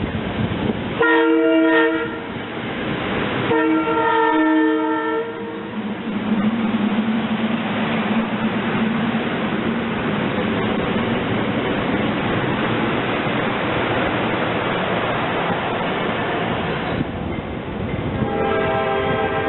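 Train horn sounding twice, a short blast then a longer one, followed by the steady rushing noise of a train on the move, and the horn sounding again near the end.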